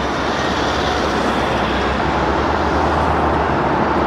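Steady rushing noise of road traffic going by.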